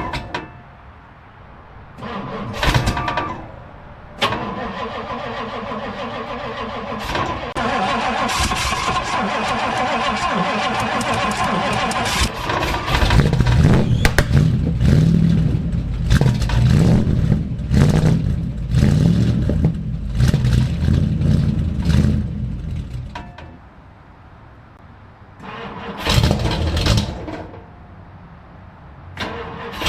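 1962 Ford Galaxie's V8 being cranked by the starter for several seconds, then catching and running roughly for about ten seconds before dying. It is cranked again in a short burst a few seconds later.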